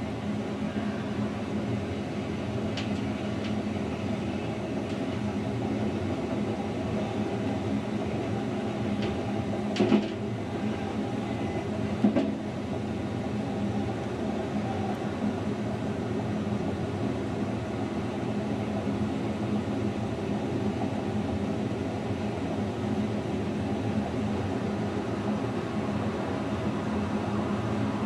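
Narrow-gauge Rhaetian Railway train running steadily along the track, a continuous rolling rumble with a steady hum. Two short sharp knocks come through, about ten and twelve seconds in.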